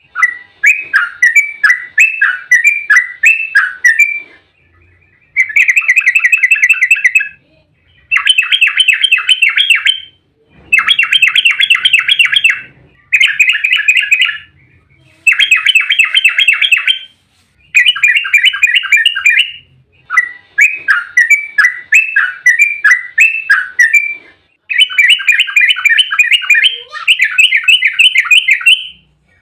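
Yellow-vented bulbul (trucukan) singing its fast, rolling chattering song in phrases of about two to four seconds, one after another with short pauses between them.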